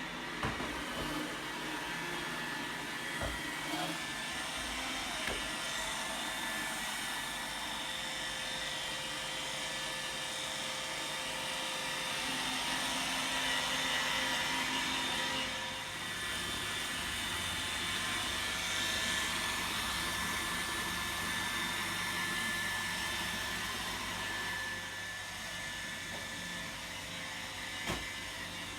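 Roomba robot vacuum running: a steady whirring of motor and brushes with several high whining tones, broken by a few brief knocks.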